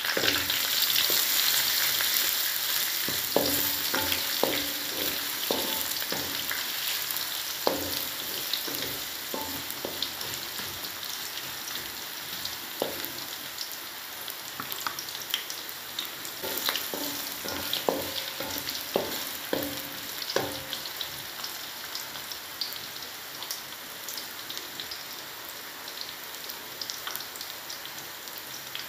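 Ginger, chilies, shallots and garlic sizzling in hot oil in a wok as the spice base is fried, with a wooden spatula knocking and scraping the pan in two spells of stirring, a few seconds in and again past the middle. The sizzle is strongest at first and fades gradually.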